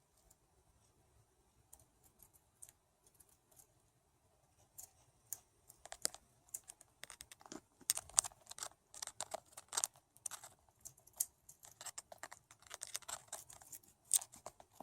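Budgie chewing on a chain: a run of small, sharp clicks from beak on chain, sparse at first and coming thick and fast from about five seconds in.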